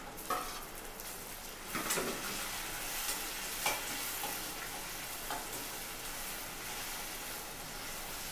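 Chopped onions and freshly added tomatoes sizzling in oil in a stainless steel kadai, sautéing, with a steady hiss. A metal spatula stirs them, scraping and knocking against the pan a few times, loudest a little past halfway.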